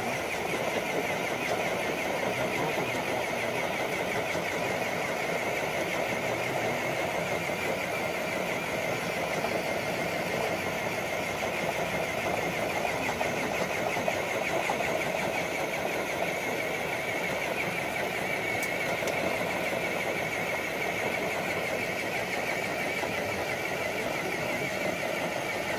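Electric RC crawler truck's motor and gearbox whining steadily under load as it pulls a dead-weight sled.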